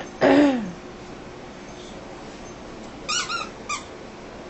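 French Bulldog puppies vocalising: one loud whine that falls in pitch right at the start, then two short high-pitched squeals about three seconds in.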